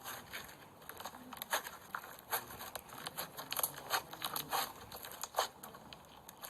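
Floam slime, slime packed with foam beads, being squeezed and pressed, giving irregular sharp crackles and pops several times a second.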